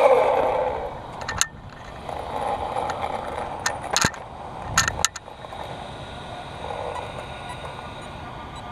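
1/5-scale RC monster truck running: a loud whine falling in pitch dies away at the start, then a fainter motor-and-tyre sound swells and fades as it drives. Several sharp clicks or knocks come about a second and a half, four and five seconds in.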